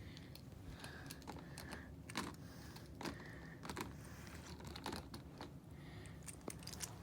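Faint, scattered light clicks and taps of small toy monster trucks being handled and set up on a toy track.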